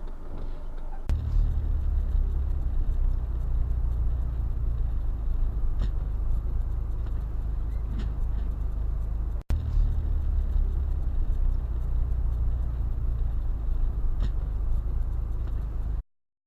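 Steady low rumble of a car driving, engine and road noise heard from inside the vehicle, with a few faint ticks. The sound drops out for a moment about two-thirds of the way through and stops abruptly near the end.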